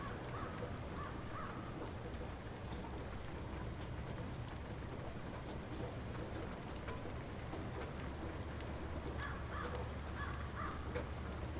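Steady light rain falling, with a bird calling in short bursts near the start and again near the end.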